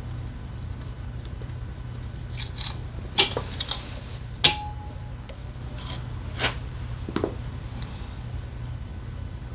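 Metal tools and engine parts clinking and tapping now and then during engine disassembly work, with one sharp clink about four and a half seconds in that rings briefly. A steady low hum runs underneath.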